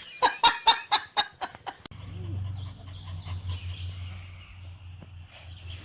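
A quick series of short animal calls, about four a second, for the first two seconds. Then a steady low hum takes over for the rest.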